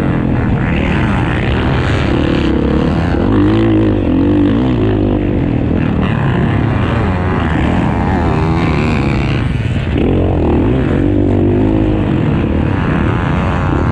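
Several motocross bikes racing, their engines revving up and down in pitch again and again as the riders work the throttle.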